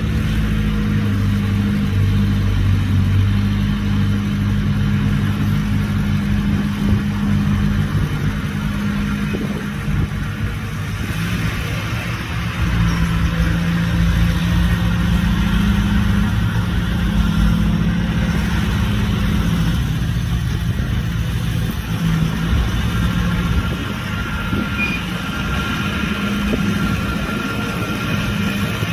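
Heavy diesel engine of earthmoving machinery running under load, its pitch shifting up and down as the machine works. A faint high whine joins in about two-thirds of the way through.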